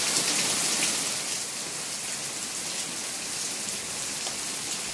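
Steady rain falling on garden plants and wet paving stones: an even hiss, a little louder in the first second.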